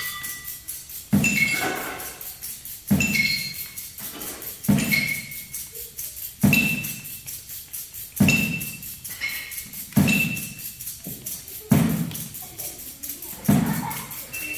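Percussion ensemble playing a steady groove: a low thud with short, high ringing notes on top comes about every second and three-quarters, over a fast, even ticking pattern.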